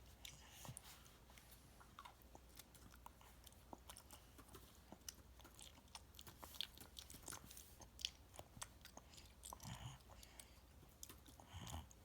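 Faint chewing and small wet mouth clicks of a child eating pasta, with irregular soft clicks throughout.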